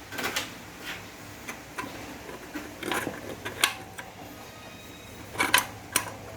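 Metal clicks and clunks of automatic transmission parts being handled and set down during a teardown, a dozen or so separate knocks with the loudest cluster near the end.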